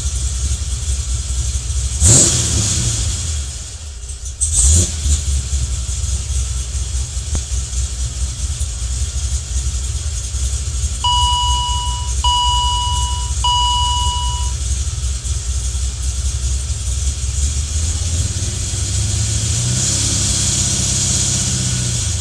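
A Pontiac's engine idling with the car standing still, a steady low rumble, blipped sharply about two seconds in and again a couple of seconds later. Near the end the engine revs up gradually to about 2,000 rpm. Midway the dash sounds three chime tones, each about a second long.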